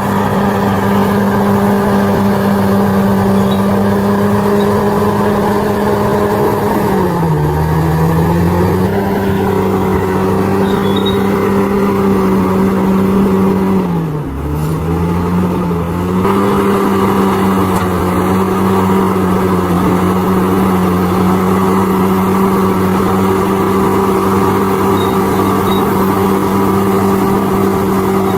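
Bulldozer's diesel engine running steadily and loud, its note sagging in pitch twice, about seven and fourteen seconds in, before picking back up.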